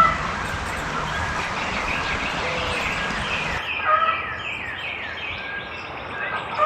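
Outdoor birds calling over a steady background hiss; about four seconds in, a quick run of short, high, downward-sliding notes, with a couple of short whistled calls.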